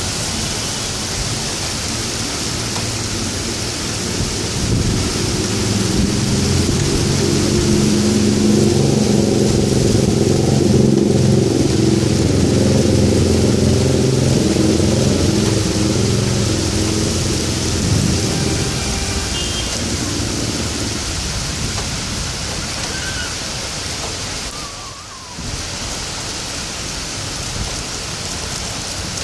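Steady hiss of heavy rain, with a long low rumble that builds about five seconds in and fades away by about twenty seconds.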